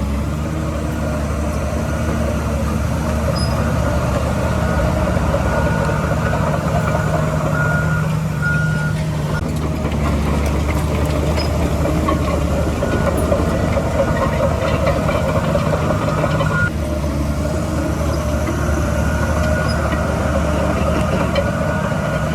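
Heavy diesel construction machinery running steadily under load, with a few short reversing-alarm beeps about eight seconds in.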